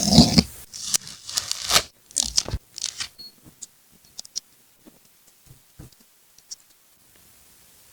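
Paper being torn and rustled in a few quick strokes, followed by sparse light taps and small paper ticks that fade toward quiet.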